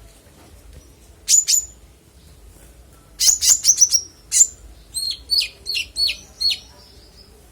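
A kolibri ninja sunbird singing sharp, high chirps. A quick double note comes about a second in, then a fast run of downward-sweeping notes, then five evenly spaced notes toward the end.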